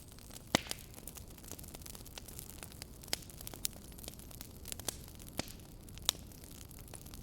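Wood fire crackling: irregular sharp pops and snaps over a steady low hiss, the loudest pop about half a second in.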